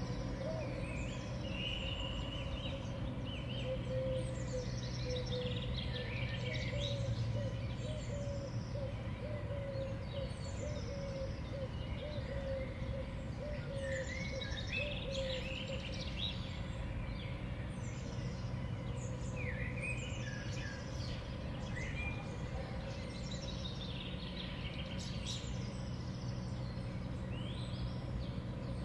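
Small songbirds chirping and calling, with many short, high call notes scattered throughout over a steady low hum.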